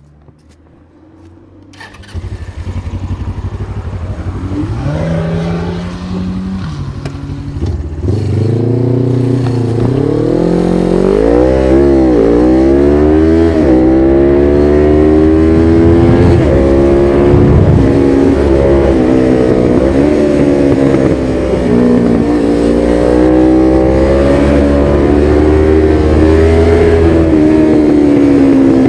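1993 Suzuki GS500E's air-cooled parallel-twin engine, breathing through a Takkoni slip-on exhaust with its dB-killer fitted. It comes to life suddenly about two seconds in and runs steadily, then from about ten seconds in revs rise and drop repeatedly as the bike pulls away through the gears, settling into a steady, varying drone.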